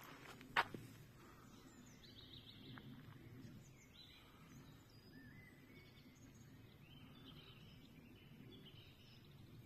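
A single sharp crunch underfoot about half a second in, then faint woodland birdsong: scattered short high chirps and calls over a low ambient hush.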